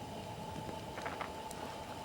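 Wood campfire crackling: scattered small pops over a steady hiss, with a short run of crackles about a second in.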